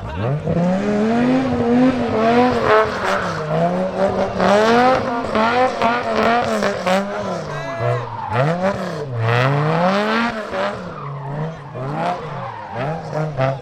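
Dodge Viper's V10 engine and exhaust revving up and down again and again, its note rising and falling in pitch many times, with a deep dip and climb about nine seconds in.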